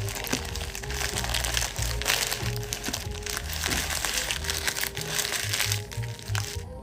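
Paper fast-food packaging crinkling and rustling as it is handled, with many small crackles. Background music with a steady bass beat plays underneath.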